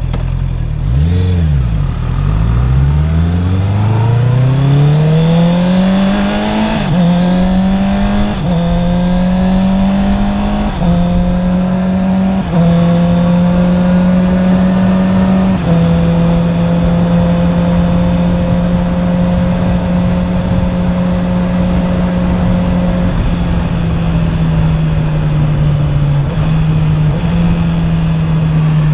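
Honda CB650R's inline-four engine through an Akrapovic exhaust: a quick throttle blip, then it pulls away with rising revs and shifts up five times in quick succession, each shift only a brief dip in engine pitch, as with a quickshifter. It then settles to a steady cruise, with wind rushing underneath.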